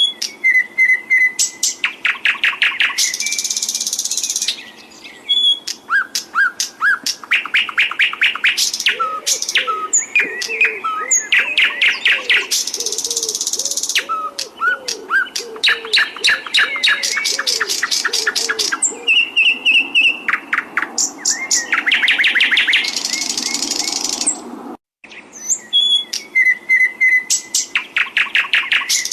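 Domestic canary singing a long, continuous song of rapid rolls and trills, fast runs of repeated notes alternating with buzzy passages. A brief break comes near the end, and the song starts over.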